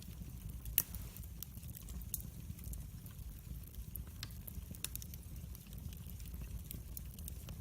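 Wood fire in a fireplace crackling: irregular sharp pops and snaps over a low steady rumble of the flames, with the loudest pop a little under a second in.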